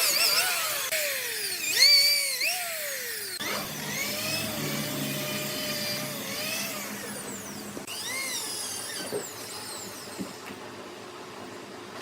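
Sawmill saw cutting a red oak log, a high whine with a stack of overtones that repeatedly dips and rises in pitch as the load on the blade changes. The sound changes abruptly about three and a half seconds in and grows quieter near the end.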